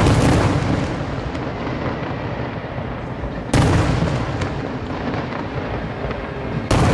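Aerial firework shells bursting: loud booms about three seconds apart, one at the start, one about halfway through and one near the end. Each is followed by a long rolling echo.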